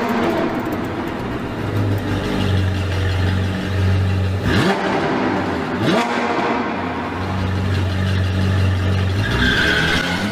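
Ferrari 458 Italia's flat-plane V8 through a Fi Exhaust valvetronic catback with catless downpipes, running steadily. It gives two quick throttle blips, the pitch shooting up about four and a half and six seconds in.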